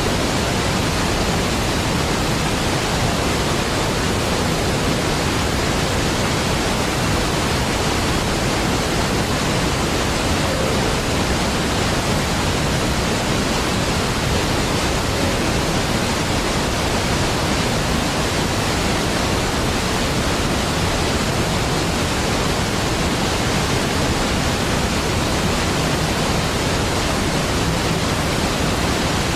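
Large waterfall: a steady, deep rush of falling water with no changes or separate events.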